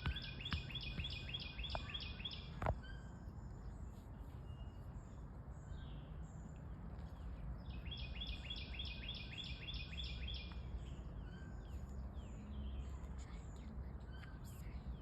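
A songbird singing a fast run of about a dozen repeated chirping notes, once at the start and again about eight seconds in, with fainter bird calls scattered between. Under it is a steady low outdoor rumble, and a single sharp click comes a little over two seconds in.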